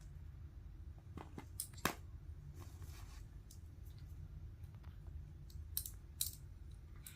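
Plastic Lego bricks being handled and snapped together: a few sharp clicks, a cluster about a second in and two more near the end, with faint rustling of pieces between them, over a low steady background hum.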